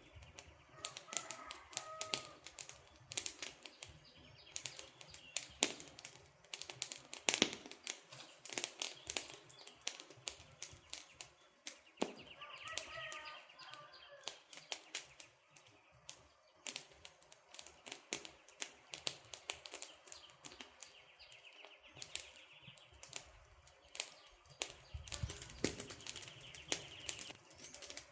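Campfire crackling: burning wood giving off irregular sharp pops and snaps, with bird chirps in the background twice, about a second in and again near the middle.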